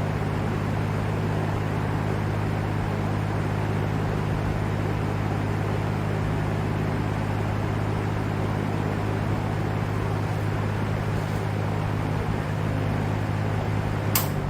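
LAU Ultra Twenty 20-inch box fan running steadily: a rush of moving air over a low electric motor hum. A single sharp click comes near the end.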